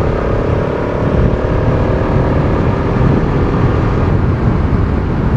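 Bajaj Pulsar RS200's single-cylinder engine running steadily under way, its note fading under heavy wind rush on the microphone about halfway through.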